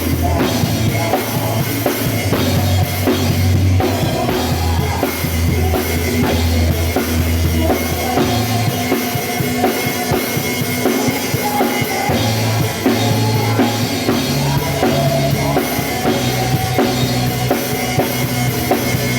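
Mapex Armory drum kit played in a gospel groove, kick, snare and cymbals hitting steadily along with a backing track that carries held bass notes and sustained chords.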